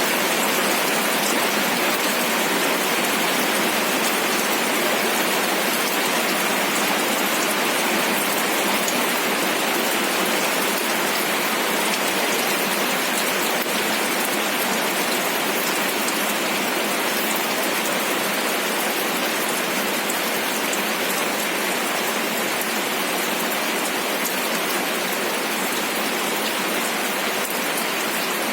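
Steady rain falling, a dense patter of many drops on a surface with fine individual drop ticks, with no thunder.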